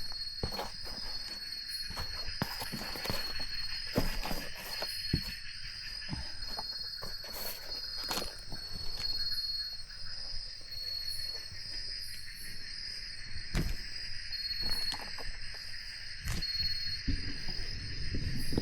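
Insect chorus, a steady high trilling, with scattered close knocks and clicks.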